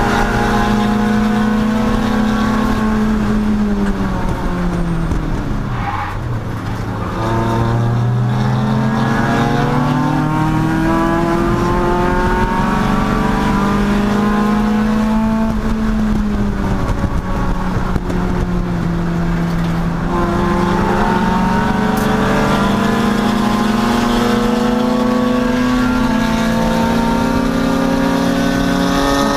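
Race car engine running hard through corners. Its pitch drops twice as it slows, a few seconds in and again past the middle, and each time it climbs steadily back up as the car accelerates.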